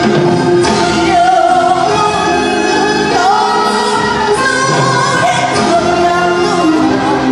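Korean traditional orchestra playing a fusion gugak arrangement of a folk boat song, its melody line sliding up and down in pitch over a steady accompaniment.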